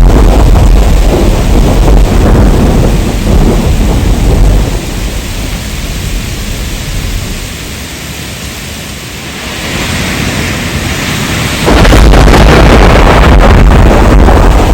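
Heavy rain with deep, rolling thunder. The low rumble eases about four and a half seconds in, leaving the hiss of rain, then comes back suddenly near the end.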